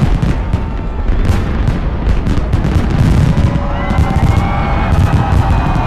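Fireworks display: a dense run of quick bangs and crackles over a continuous low rumble of booms. Near the end, steady held tones join in.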